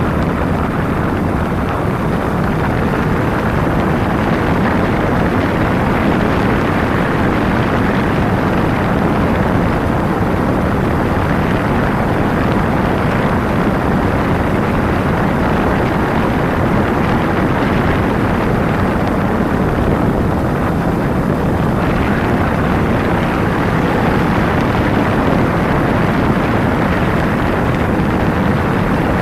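Kawasaki Ninja 250 motorcycle underway, its parallel-twin engine running under a loud, steady rush of wind noise on the camera's microphone.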